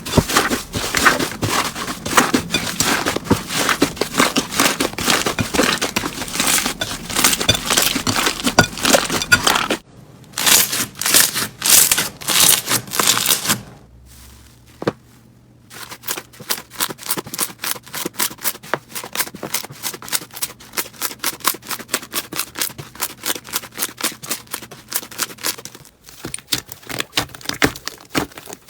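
Slime being squeezed and pressed, crackling and popping in dense runs of sharp clicks. It falls almost quiet briefly around the middle, then goes on as rapid, fairly even clicking.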